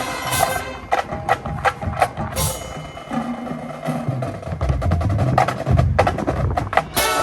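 Band rehearsal music carried mostly by sharp percussion strikes, in uneven quick rhythms, with held notes underneath. A deep low rumble runs through the middle, and the full band comes back in with sustained chords near the end.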